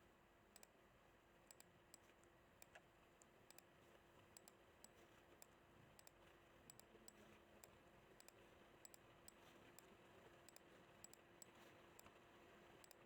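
Near silence with faint, scattered computer mouse clicks, over a faint steady hum.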